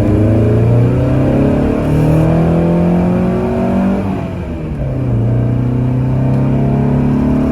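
Datsun 510 Bluebird's L16 inline-four on Solex carburettors being revved: the revs climb over the first two seconds and hold, drop about four seconds in, then pick up again and hold.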